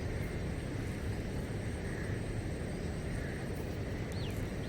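Steady low outdoor rumble, with a bird giving two short downward-sweeping calls near the end.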